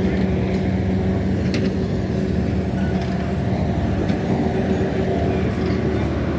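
Steady engine hum holding one constant pitch, with a single sharp click about one and a half seconds in.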